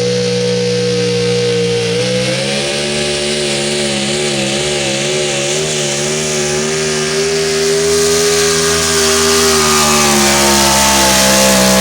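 Super stock 4x4 pulling truck engine running flat out at high revs under load during a pull. The pitch holds steady, wavers up and down for a few seconds in the middle, then sags slightly near the end.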